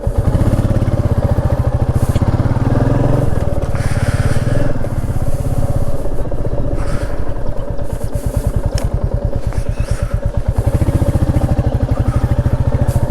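Motorcycle engine running under way with its firing pulses steady, growing louder as the throttle opens in two stretches, one at the start and one near the end. There are a few sharp knocks along the way.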